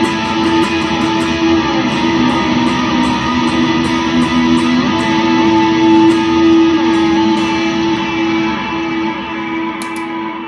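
Electric guitar played through stacked overdrive pedals with an ambient reverb and delay, picked notes over sustained ringing chords. The picking stops about three-quarters of the way through and the last chord rings out and fades.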